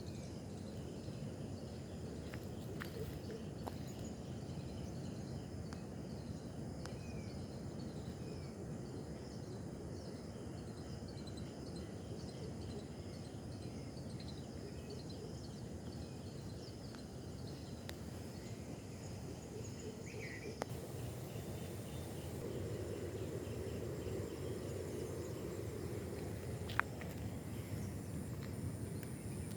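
Outdoor garden ambience: a steady low noise with a thin, high, steady insect whine, faint bird chirps now and then, and a couple of sharp clicks, the louder one near the end.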